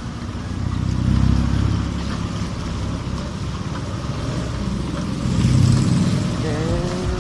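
Wind rushing over a helmet-mounted earphone mic, mixed with the running of a Honda RS125 FI's small four-stroke single-cylinder engine while riding; the rumble swells twice. A short pitched sliding sound comes near the end.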